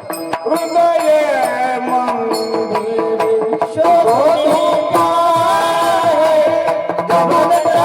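Marathi kirtan music: a voice singing a devotional tune with instrumental accompaniment, and sharp percussion strikes in the first second.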